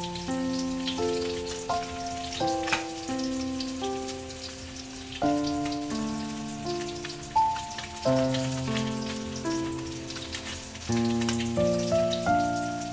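Fish frying in oil in a steel wok: a steady crackling sizzle. Over it plays louder background music of struck notes that ring and fade, one after another.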